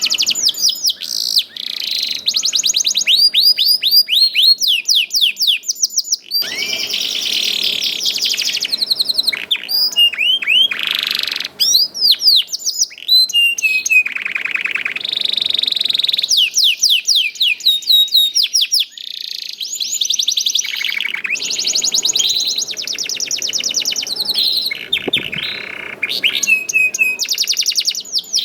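Domestic canary singing: long, fast trills of repeated chirping notes, each phrase switching to a new note type every few seconds, with a few short breaks.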